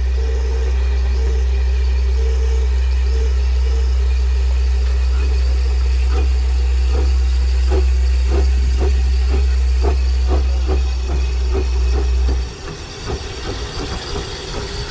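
Heritage railway train running, with a deep steady rumble and some hiss. A regular beat of about two to three strokes a second comes in about halfway through, and the rumble cuts off suddenly near the end.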